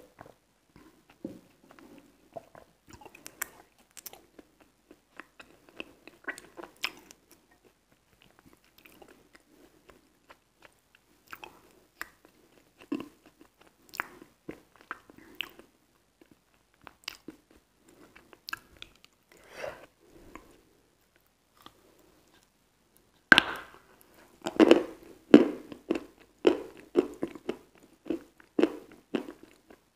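Close-miked biting and chewing of a soaked white block, the wet-crunch ASMR kind: scattered soft crunches and mouth sounds, then a louder, quicker run of crunching bites about three quarters of the way through.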